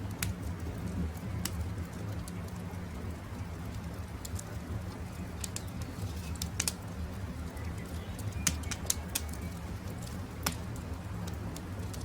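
Wood campfire crackling, with sharp irregular pops over a steady low rumble, and faint bird calls in the background.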